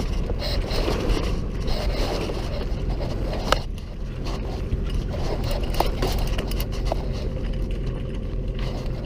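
A sailboat's mainsail being hoisted: the sail and its lines scrape, with a few sharp clicks of rigging hardware, over the steady drone of the boat's engine. The main will not go fully up because the mainsheet is set too tight.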